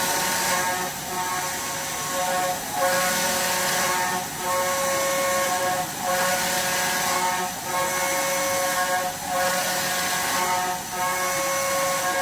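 CNC milling machine cutting metal: a steady whine from the spinning cutter over a constant hiss, dipping briefly about every second and a half as the tool moves through repeated passes.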